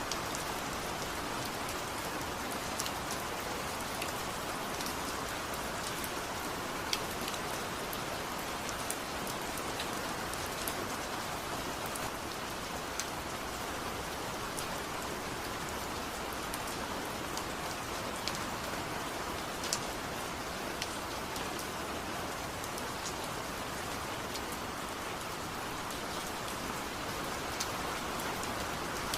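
Steady rain: an even hiss, with single drops ticking sharply now and then.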